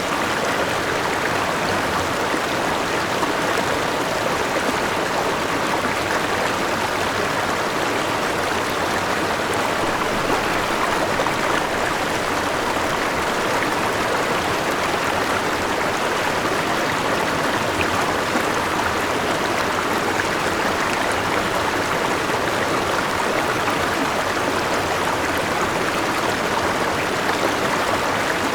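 A forest river rushing and splashing over rocks, a steady, even flow of water.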